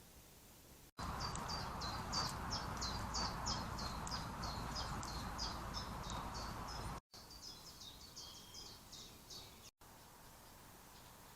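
Small birds calling in a rapid series of short, high chirps, each falling in pitch, at about three or four a second, over the steady hiss of a trail camera's microphone. The chirps start abruptly about a second in, loudest for some six seconds, then continue fainter in a second clip before stopping near the end.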